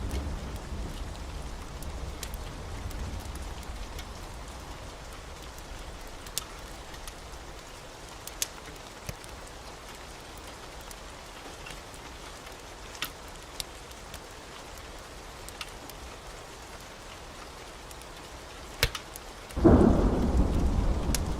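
Steady heavy rain, with a low thunder rumble fading away over the first few seconds and a few sharp clicks scattered through. Near the end a loud thunderclap breaks in suddenly and goes on rumbling.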